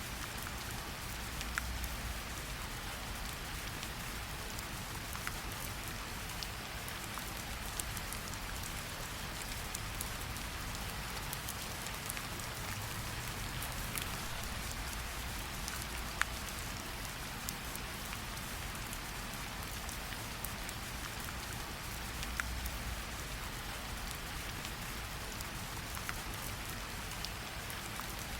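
Gentle rain falling on tree leaves: a steady soft patter with single louder drips ticking out here and there.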